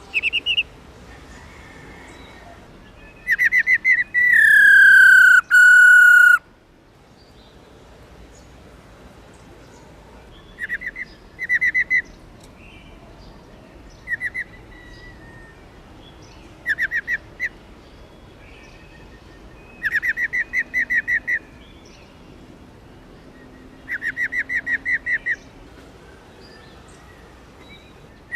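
Female black-throated laughingthrush giving its 'ro ro' call: short, rapid rattling trills repeated every few seconds. Early on there is one long, slightly falling whistle about three seconds long.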